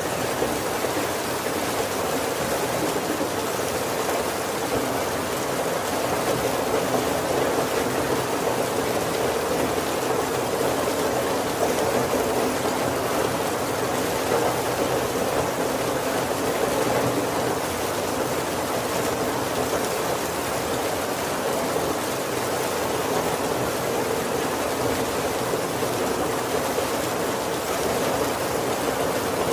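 Heavy rain falling steadily on a wooden roof, heard from inside as a continuous even hiss without separate drops standing out.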